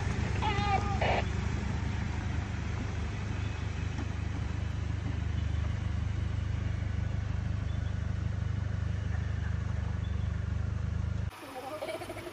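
Four-wheel drive's engine running with a steady low rumble, with a short pitched voice-like call about half a second in. The rumble cuts off abruptly near the end.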